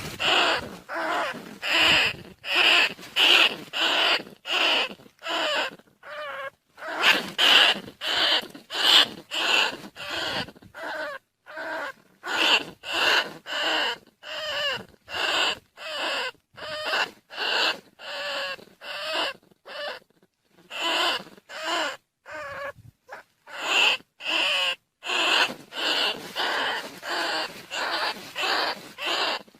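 Decoy recording of field rats calling: short, high, squeaky calls repeated rapidly, about two a second, in runs broken by brief pauses.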